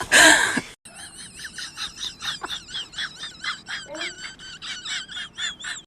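A loud, noisy burst that cuts off just under a second in, then an animal's rapid, high chirping calls, about five a second, repeating steadily.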